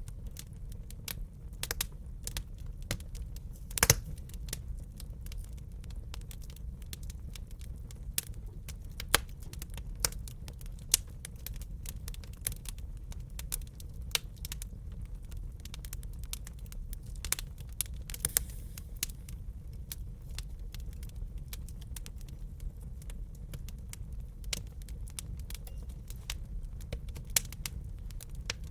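Wood fire crackling in a fireplace: a steady low rumble of burning with irregular sharp pops and snaps. The loudest pop comes about four seconds in, and a few more sharp snaps follow near the tenth second.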